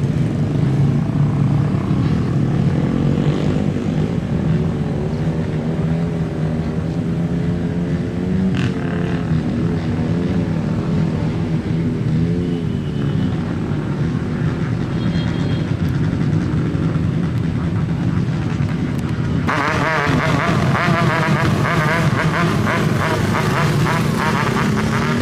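Airbus A330 jet airliner's engines running, a steady low hum with a wavering tone above it. About nineteen seconds in, a louder rushing noise comes in abruptly.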